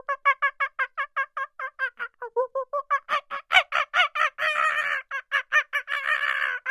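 An animal calling in a rapid run of short repeated pitched notes, about five a second, growing louder after about three seconds and broken by a few longer, drawn-out calls in the second half.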